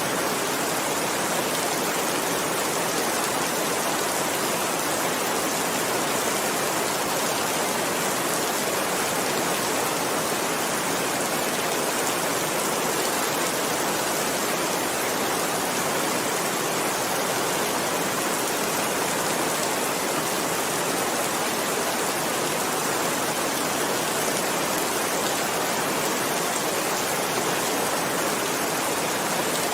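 Heavy rain falling, a steady, even hiss of dense raindrops that does not change.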